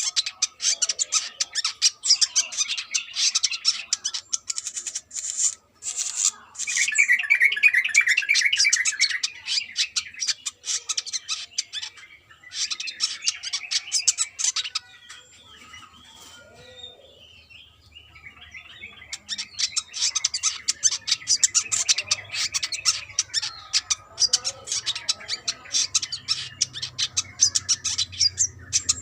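Brown-throated sunbird (kolibri kelapa) singing a rapid, high-pitched twittering song in long dense runs. There is a short break about six seconds in and a quieter stretch around the middle before the twittering picks up again.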